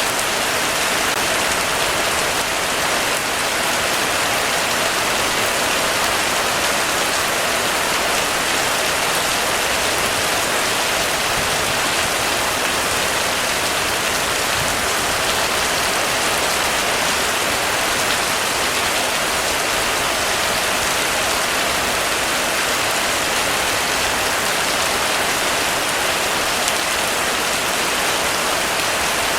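Heavy rain falling steadily on a roof, a dense, even hiss of drops with no let-up or change in strength.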